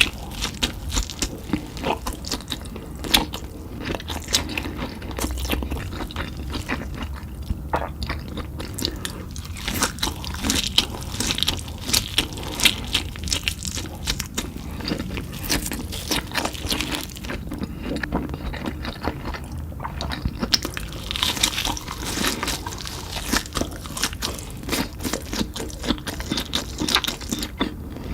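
Cheetos-crusted meat fingers being bitten and chewed, a dense, irregular run of crisp crunches.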